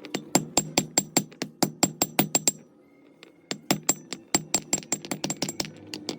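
Rapid hammer blows on a metal part, about five a second with a metallic ring, stopping for about a second midway and then resuming.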